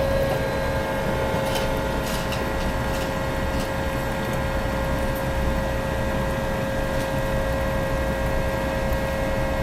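Riding noise from a bicycle on the move: a low rumble of wind and road under a constant, unchanging whine.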